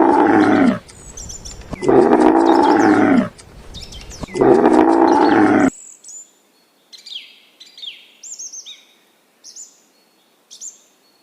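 An animal gives three long, loud calls, each about a second and a half and dropping in pitch at the end. After about six seconds these give way to small birds chirping, with short high notes that sweep downward.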